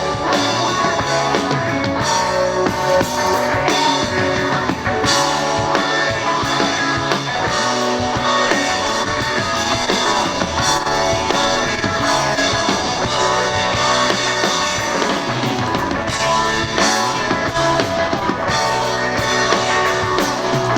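Live rock band playing the song's closing instrumental section, with a drum kit and guitar and no singing.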